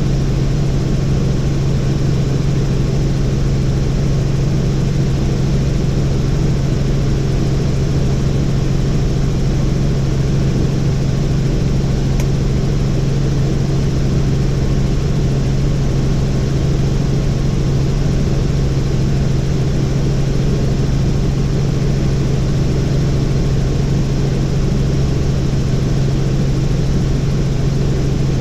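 Helicopter in flight: a loud, steady drone of rotor and engine with a strong, unchanging low hum.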